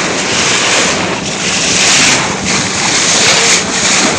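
Wind buffeting the microphone over the rush of water along a moving boat's hull, with a low steady hum underneath.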